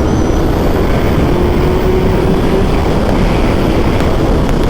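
Motorcycle ridden at speed: steady wind rush on the camera microphone, with the engine running underneath.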